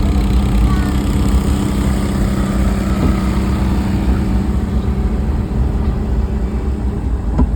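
A motor vehicle's engine running steadily at a constant pitch, with a continuous low rumble of road and wind noise.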